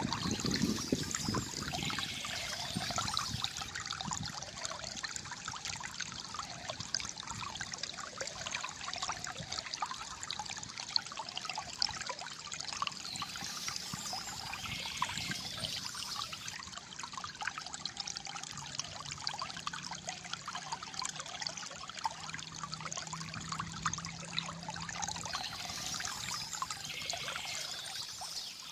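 Shallow water trickling and gurgling steadily over stones, with birds chirping in three short spells about twelve seconds apart.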